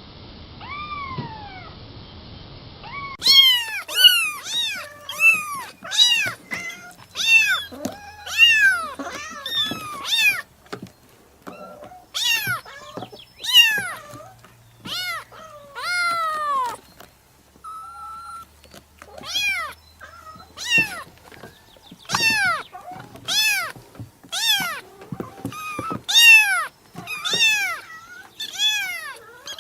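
A kitten meowing again and again, about one high meow a second, each rising and then falling in pitch. The first few meows sound muffled before the calls turn clear and louder.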